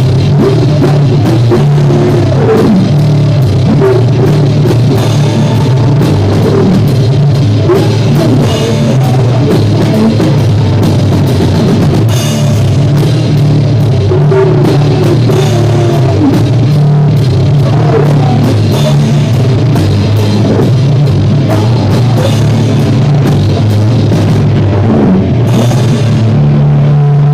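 A live rock band playing at rehearsal: drum kit with cymbals, bass and guitar, loud and heavily distorted by an overloaded recording.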